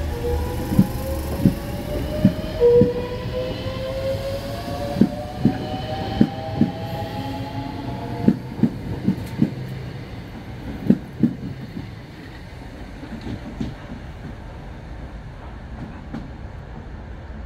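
Electric multiple-unit train accelerating away from a station platform: its traction motors give a whine that rises steadily in pitch, and the wheels clack over rail joints in a run of sharp clicks that thins out and stops about 11 seconds in.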